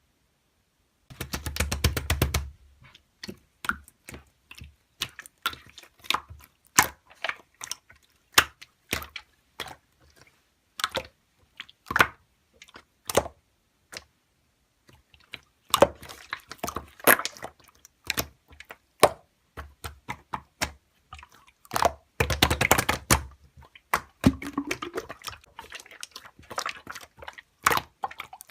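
Sharp clicks and taps: several quick flurries of rapid clicks, with single clicks spaced out between them.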